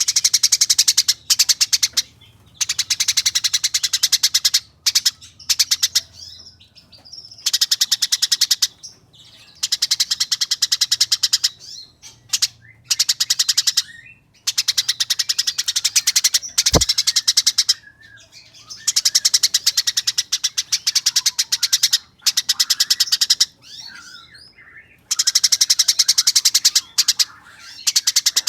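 Eurasian tree sparrow in fighting mode giving rapid rolling chatter: dense trains of fast, high chirps in bursts of one to two seconds with short gaps, again and again. One sharp click about seventeen seconds in.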